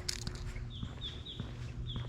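Footsteps of someone walking, with a bird giving a series of short, high, falling chirps from under a second in, over a low steady hum.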